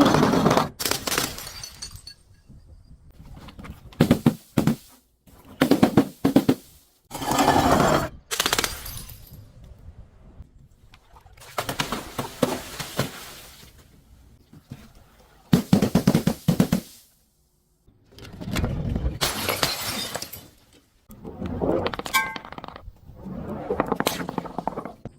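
A series of separate crushing and breaking bursts, as objects are smashed and crushed one after another, each lasting up to about two seconds with short pauses between.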